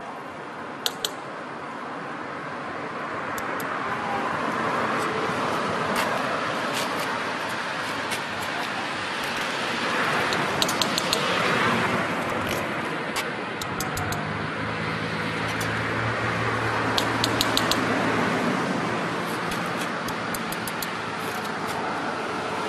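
Road vehicles passing by, the noise swelling and fading several times, with a vehicle engine idling for several seconds past the middle. Sharp metallic clicks come and go throughout.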